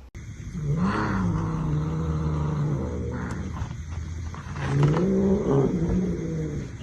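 A cat yowling: two long, drawn-out calls, each rising and then holding its pitch, the second starting about four and a half seconds in.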